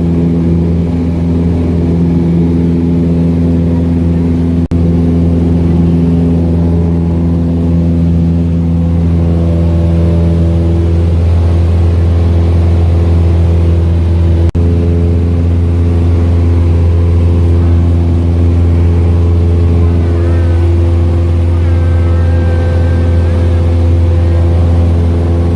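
Small airplane's piston engine and propeller running with a steady, loud low drone, heard from inside the cabin. The pitch shifts a little partway through as the engine speed changes.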